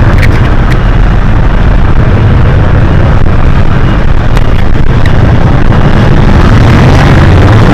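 Hino HS8JRVL-UTF city bus's diesel engine running steadily while the bus is under way, heard from inside the bus, with a few sharp rattles or clicks over the deep rumble.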